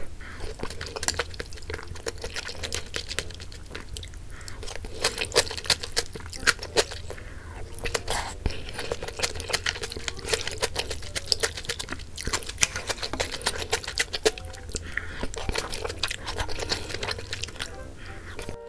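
Close-miked eating: irregular wet chewing with many small smacks and clicks, over a steady low hum.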